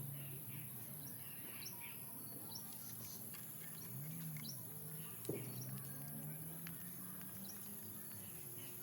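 Wild birds chirping at a feeding spot: many short, sharp chirps over a low steady hum, with a single sharp click about five seconds in.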